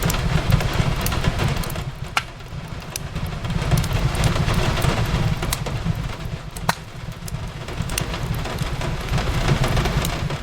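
Steady rain on a window with a low rumble that swells and fades, and the sharp pops of a crackling wood fire now and then, loudest about two seconds in and again near seven seconds.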